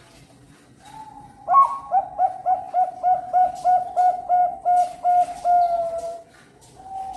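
Zebra dove (Bangkok-bred perkutut) singing its cooing song: a short lead-in coo, then a run of about a dozen quick clipped coos, about three a second, closing in a longer, slightly falling note. Another short coo follows near the end.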